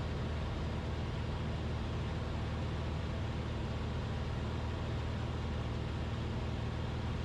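Cessna 172RG's four-cylinder Lycoming engine and propeller droning steadily in level flight, heard inside the cabin: a constant low hum with an even hiss of air noise over it.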